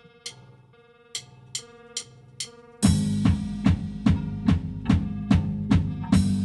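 Post-punk electric bass and drum kit playing: a sparse bass line with a few light cymbal taps, then about three seconds in the full kit and bass come in loud together on a steady driving beat.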